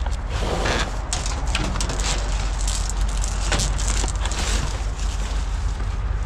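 Scrap conduit and wire being rummaged through in a dumpster: irregular clatter, clinks and scraping of the pieces over a steady low rumble.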